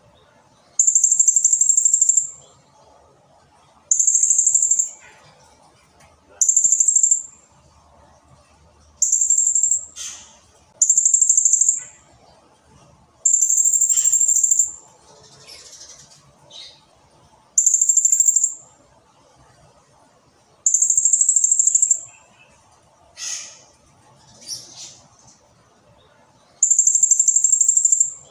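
Blue-crowned hanging parrot (serindit) calling: nine high, shrill, drawn-out calls of about a second each, with pauses between them and a few short sharp chips in the gaps.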